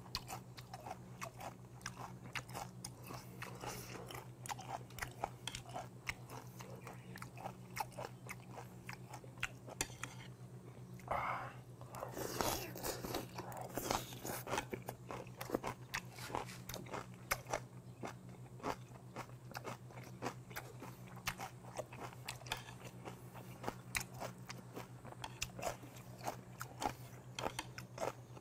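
A person chewing crunchy food close to the microphone, with many small crunches and mouth clicks and a louder stretch a little before halfway. A steady low hum runs underneath.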